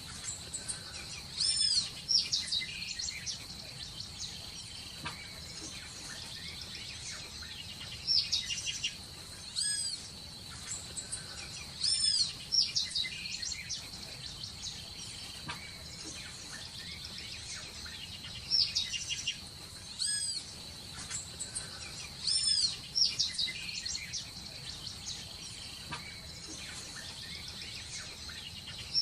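Birds calling in clusters of short, high, rising-and-falling chirps every few seconds, over a steady high-pitched insect drone.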